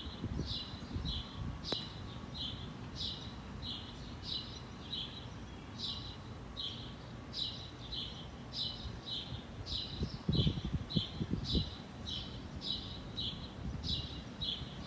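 A bird chirping over and over, about two to three short high chirps a second, over a low rumble on the microphone that swells briefly about ten seconds in.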